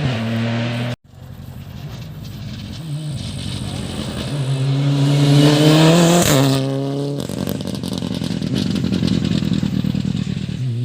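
Rally car at full throttle on a stage, its engine note climbing in pitch and loudness to a peak about six seconds in, with a sharp gearshift, then fading into a rushing haze as it goes away.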